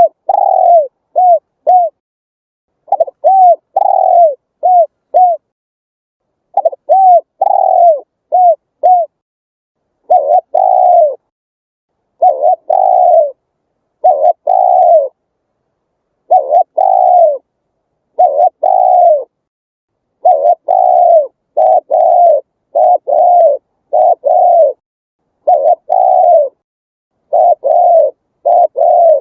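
Spotted dove cooing: phrase after phrase of low, arched coo notes with silence between them. Early on the phrases mix a longer coo with quick short notes, and later the coos come longer and closer together.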